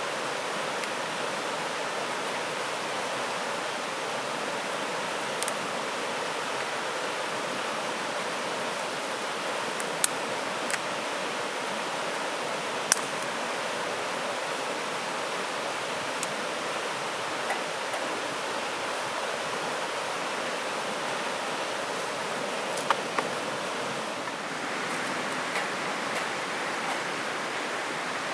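Steady rushing of a nearby stream or river, with a few sharp clicks here and there, the loudest about ten and thirteen seconds in.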